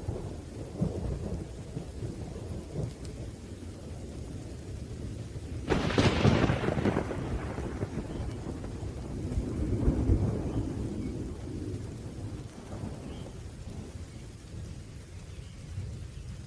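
Thunderstorm with steady rain and rolling thunder; a sharp thunderclap breaks out about six seconds in and rumbles away over several seconds, with another swell of rumbling a few seconds later.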